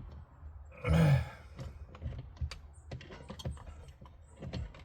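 Scattered small clicks and knocks from parts and wiring being handled and pushed around in a cramped engine bay, with a loud brief grunt of effort about a second in.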